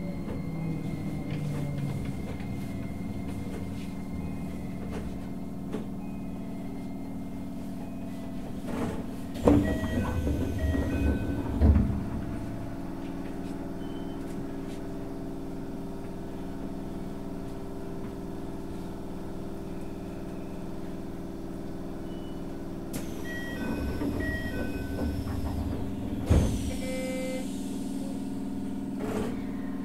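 Keisei 3000 series commuter train drawing to a stop, its traction motor whine falling away, then standing with a steady hum from the car's equipment. About ten seconds in the doors open with a door chime and two heavy knocks, and near the end a chime sounds again and the doors shut with a thud.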